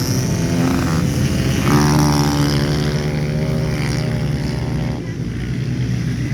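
Small motorcycle engines of pit bikes running on a track. One engine comes in strongly and is loudest about two seconds in. The sound eases slightly near the end.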